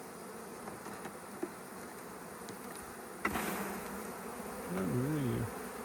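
Honey bees buzzing steadily around an opened hive, with a sudden louder burst of noise about three seconds in.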